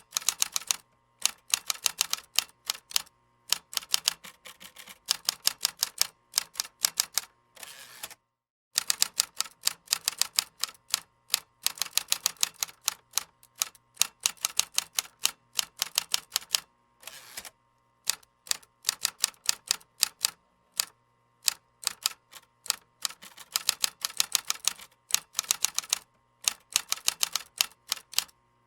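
Computer keyboard typing: fast runs of key clicks in bursts of a second or two, with brief pauses between them.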